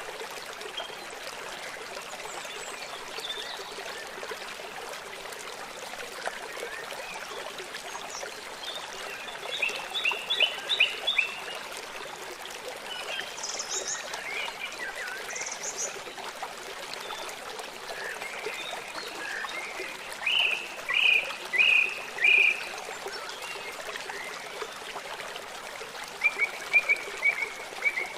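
Steady rush of running water, with songbirds chirping over it in several short runs of quick notes.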